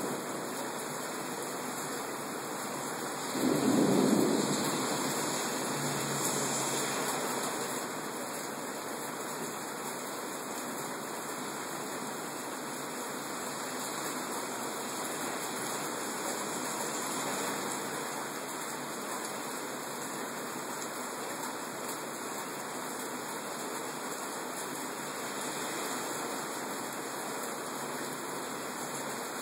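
Heavy rain pouring down in a steady hiss, with a brief louder rumble of thunder about four seconds in.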